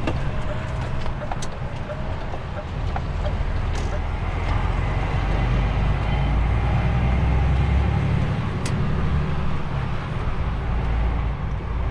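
DAF XF truck's diesel engine and road noise heard inside the cab while driving: a steady low rumble that swells a little in the middle, with a few faint clicks.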